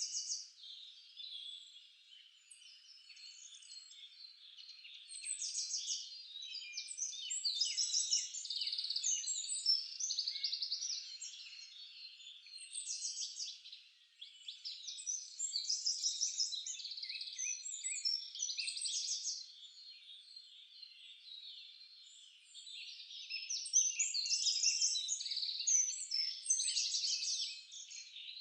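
Several songbirds singing together: overlapping high-pitched chirps, whistles and fast trills, swelling into three louder bouts of song.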